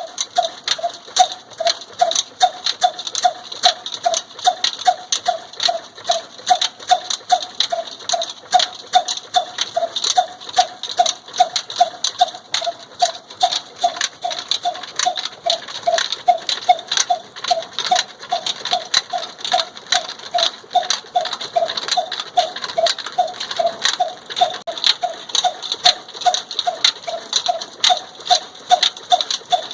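Old black desi diesel engine driving a flour chakki, running steadily: a rapid, even clacking beat with a short squeaky chirp repeating about two to three times a second.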